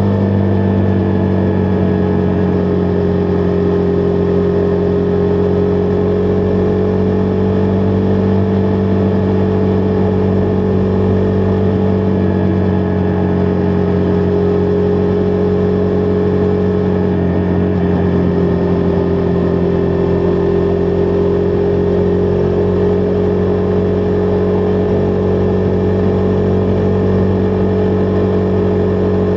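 Husqvarna Vitpilen 401's single-cylinder engine running at a steady cruise, its note sagging slightly and picking up again, with wind rushing past.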